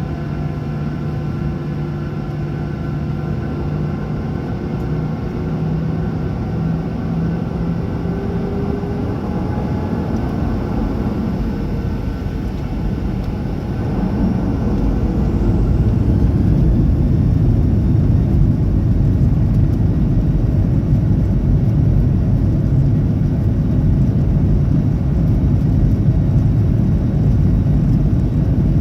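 Boeing 737-800's CFM56 jet engines heard from inside the rear cabin, running with a steady hum and faint tones rising slightly. About halfway through, the roar steps up sharply and stays loud as the engines spool up to takeoff thrust.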